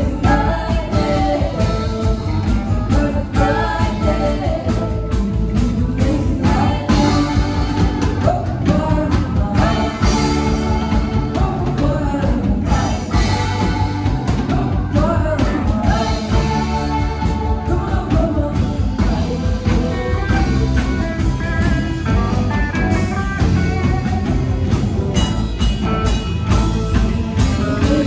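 Rock band playing live: singing over electric guitar, bass and a drum kit, with a steady beat throughout.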